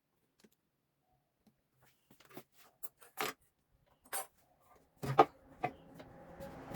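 A scattered series of short clicks and knocks, with a couple of brief rustles, and a louder knock about five seconds in.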